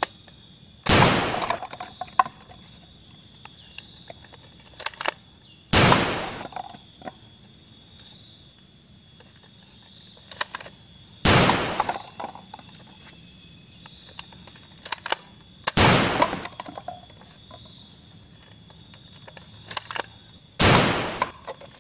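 Foam dart blaster firing five shots, about five seconds apart, each a loud sudden pop that trails off briefly, with lighter clicks and knocks between the shots as it is primed and cups are hit.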